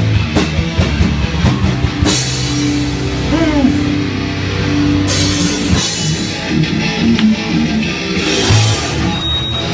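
Hardcore punk band playing live: distorted guitars, bass and a drum kit, with crash cymbals washing in about every three seconds.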